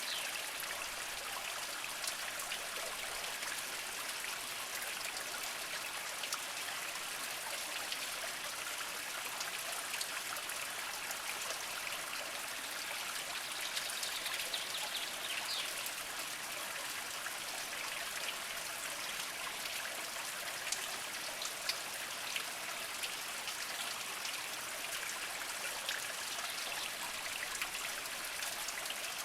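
Small mountain spring trickling slowly over mossy rocks: a steady splashing hiss dotted with many small individual drips and splashes.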